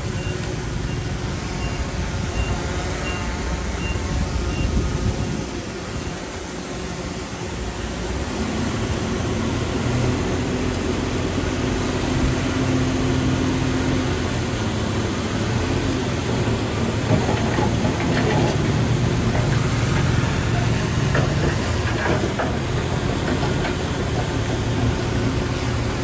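Heavy diesel earthmoving machinery running steadily under load, with a few metallic clanks in the second half.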